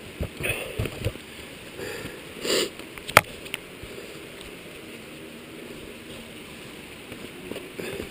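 Faint, distant enduro motorcycle engine running somewhere out of sight. There are handling bumps on the microphone in the first second and a sharp click about three seconds in.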